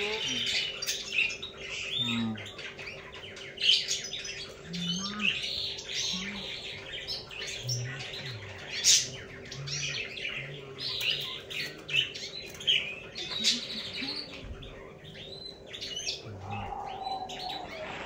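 Small birds chirping and twittering in scrub, many short calls overlapping one another throughout.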